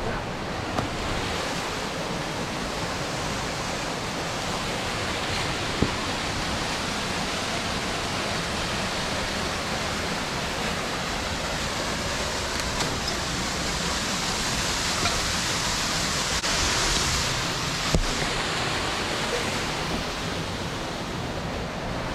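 Steady rush of a waterfall's falling water, with a few short knocks standing out above it.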